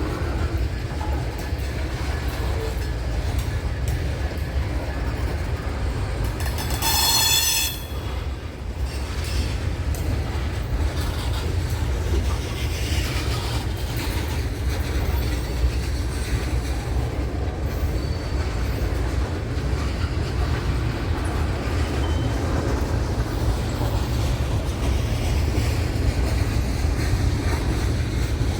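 A train rolling past with a steady low rumble and wheel clatter. About seven seconds in there is a brief high-pitched squeal lasting about a second.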